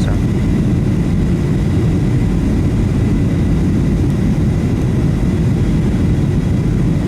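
Steady low rumble inside the cabin of a Boeing 737-700 airliner: engine and airflow noise, with a faint thin steady tone above it.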